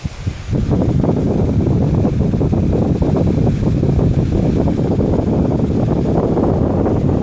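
Pedestal fan's airflow buffeting the microphone as loud, steady wind noise, which starts suddenly about half a second in after a couple of clicks.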